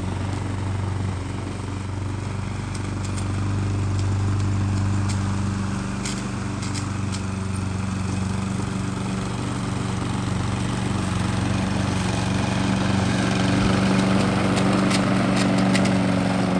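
A small engine running at a steady speed with a constant hum, with a few sharp clicks about six seconds in and again near the end.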